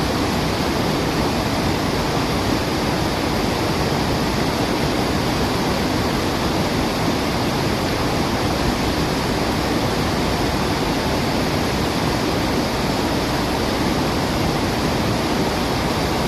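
Waterfall: steady, even rushing of falling water, with no birdsong heard above it.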